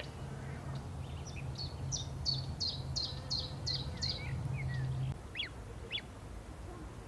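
A small bird singing a run of about eight quick, high repeated notes, followed by two short sharp chirps. A low steady hum lies underneath and stops about five seconds in.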